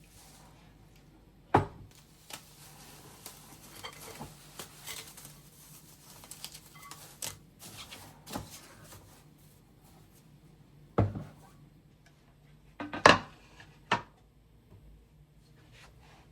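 Kitchen handling sounds: dishes and utensils knocking and clinking, with sharp knocks a second and a half in, around eleven seconds, a quick cluster around thirteen seconds and another at fourteen, and small clicks and rustles between.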